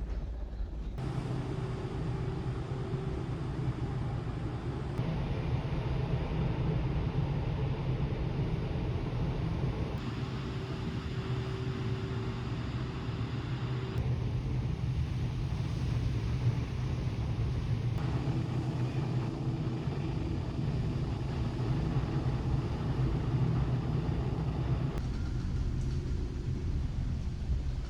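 Steady low rumble and hum of a large car ferry's engines and machinery heard aboard. The background shifts abruptly every few seconds.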